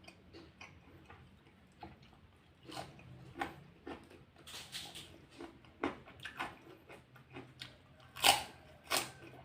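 Close-up chewing and crunching of food in the mouth: a string of irregular crunches, with two louder ones near the end.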